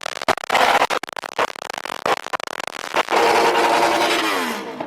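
A car engine revving hard at a car meet, choppy and crackling for about three seconds, then settling into a steadier tone that falls away as the revs drop near the end.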